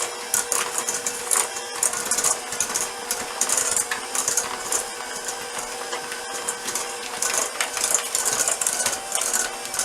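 Electric hand mixer creaming softened butter and sugar in a bowl: a steady motor hum with the beaters rattling and clicking through the mixture.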